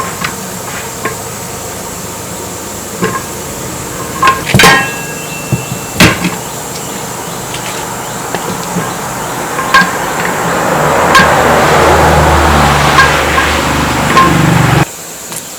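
Hammer blows on metal during a truck tyre change: a few sharp, separate strikes, one about five seconds in ringing briefly. In the second half a steady noise swells up and cuts off suddenly near the end.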